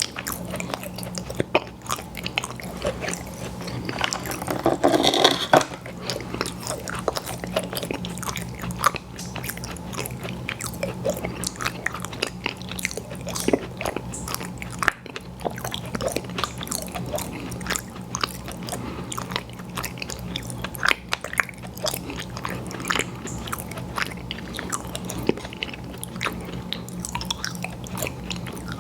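Close-miked chewing, biting and wet mouth sounds of someone eating pie desserts, with many small crunchy clicks and a louder bite about five seconds in. A steady low hum runs underneath.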